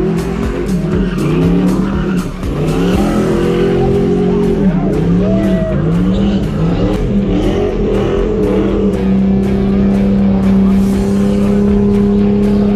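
Vehicle engine revved hard in repeated rising and falling surges, then held steady at high revs for the last few seconds, with tires squealing: a burnout.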